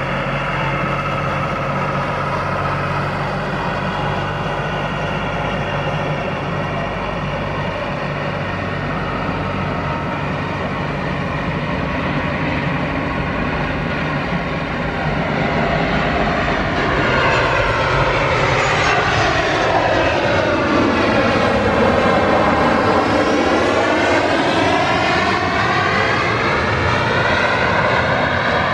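Boeing 737-800's CFM56 jet engines heard as the airliner comes in to land, a steady roar that grows louder and then sweeps past with a phasing whoosh, its pitch seeming to fall and rise again about twenty seconds in.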